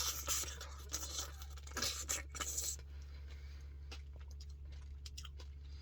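Close-up eating of a Dairy Queen Puppy Chow Blizzard: scraping and crunchy chewing in a run of noisy bursts for the first three seconds or so, then only a few faint clicks.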